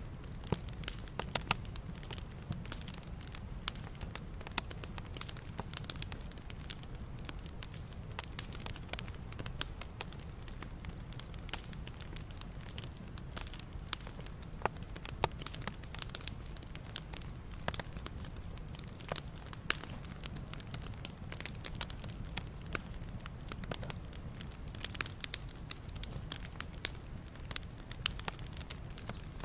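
Wood campfire crackling, with irregular sharp pops and snaps from the burning wood over a steady low rumble.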